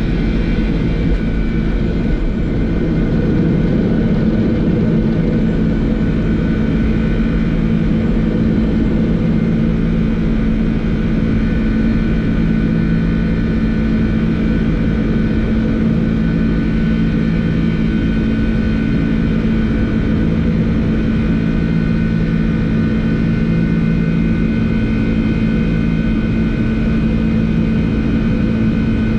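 Boeing 747-400 flight-deck noise in the climb after takeoff: a steady loud rush of air and engine sound with a constant low hum and a few steady higher whining tones.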